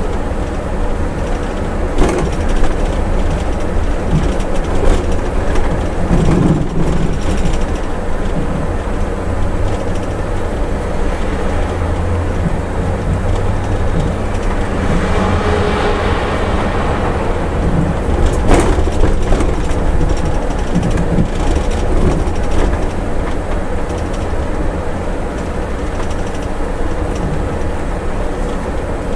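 Scania coach running down a steep mountain grade, heard from the driver's cab: a steady rumble of engine and road with rattles, a couple of sharp knocks, and a rush of noise swelling and fading about halfway through.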